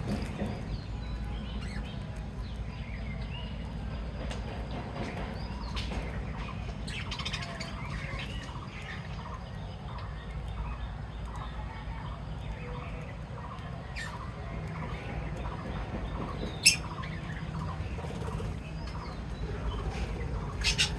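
Small pet birds chirping and twittering in many short, overlapping calls, over a steady low rumble. A single sharp click comes about two-thirds of the way through.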